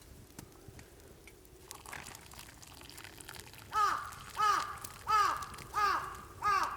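A crow cawing in an even series of five harsh calls, about one and a half a second, starting a few seconds in after faint quiet with small ticks.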